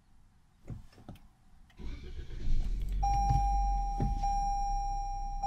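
Toyota Corolla push-button restart: a few light clicks, then the engine cranks and catches about two seconds in and settles to a low idle. About a second later a steady electronic warning tone from the instrument cluster starts and keeps sounding over the idle.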